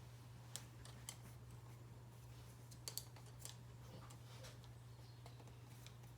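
Faint, scattered clicks and scratches of a plastic zip tie being worked through a hole in a seed-coated cardboard tube, over a low steady hum.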